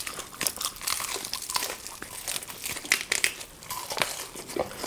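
Close-up eating of chicken leg pieces in a race: irregular crackly crunches as the meat is bitten and torn from the bone.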